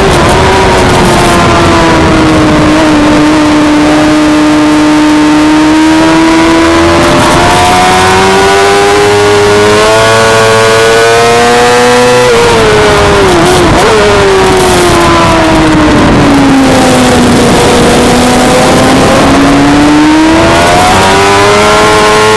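Suzuki GSX-R600 inline-four engine running at high revs on track, its pitch sinking and climbing again over several seconds as the throttle is eased and opened. There is a quick drop in pitch about 13 seconds in, then a long fall and another climb near the end. Constant wind rush lies under it.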